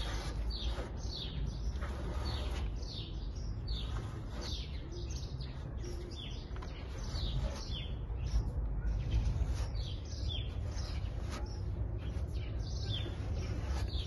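Small birds chirping repeatedly: short, high, falling chirps one to two times a second, over a steady low rumble.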